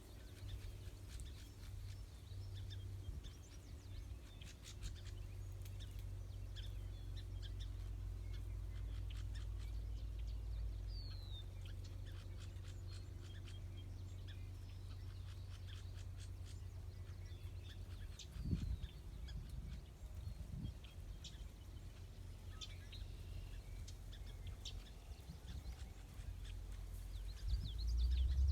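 Several songbirds chirping and calling in short, scattered high notes, with one clear falling whistle about eleven seconds in, over a steady low rumble.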